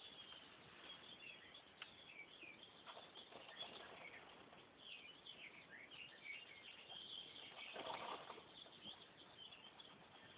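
Faint chirps of small birds: many short, high calls scattered throughout over near-silent room tone, with a brief soft rustle about eight seconds in.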